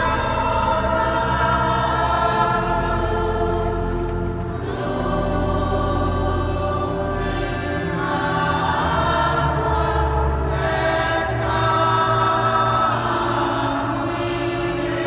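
Choir singing sacred music in a reverberant cathedral, over deep held bass notes.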